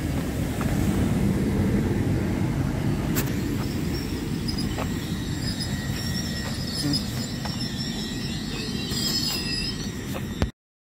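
GWR Class 800 train drawing to a stop at the platform: a steady low rumble of wheels on rail, with a few sharp clicks. High brake or wheel squeal comes in from about six seconds in as it halts. The sound cuts off suddenly near the end.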